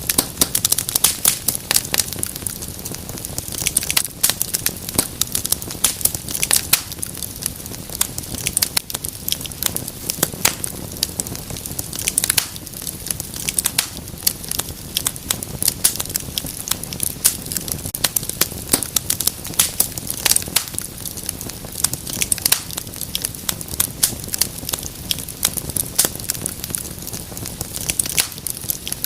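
Wood fire crackling, with frequent irregular sharp pops and snaps over a low steady hiss of the burning.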